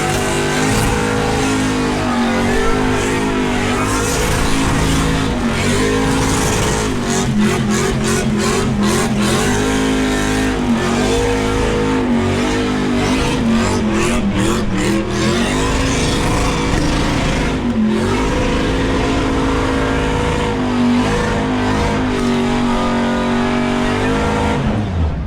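V8 muscle car engine held at high revs during a burnout, the revs wavering up and down, with rapid stuttering stretches in the middle and the tires spinning.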